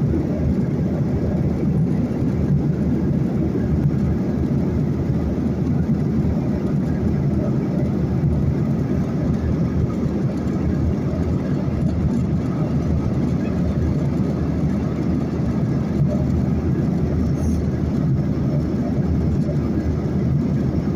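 Airliner cabin noise in flight: a steady low rumble of engine and airflow heard from inside the passenger cabin.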